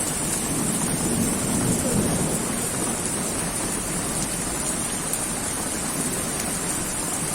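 Heavy rain pouring steadily, a dense even hiss of a downpour.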